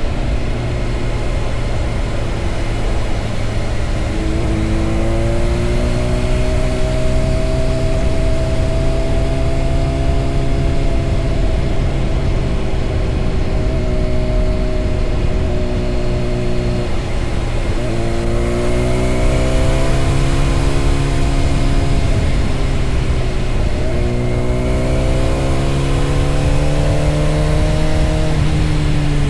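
Honda CBR600RR sport motorcycle's engine pulling on the road, its pitch climbing, dropping briefly at gear changes twice and climbing again, over a steady low rumble of wind and road noise.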